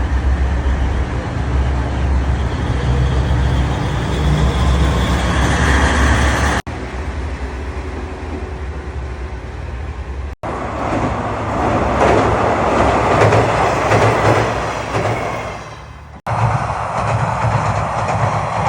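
KiHa 40-series diesel railcars running, in several takes joined by abrupt cuts. A deep diesel engine drone comes first, then wheels rumbling along the track, swelling and fading as a train passes near the middle.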